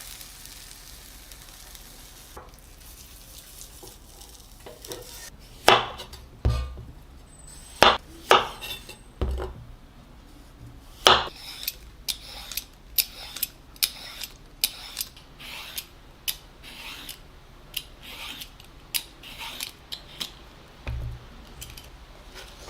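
Kitchen utensils clinking and knocking against dishes and cookware: a string of sharp, irregular clicks and clatters starting about five seconds in, with a few dull thumps, after a faint fading sizzle.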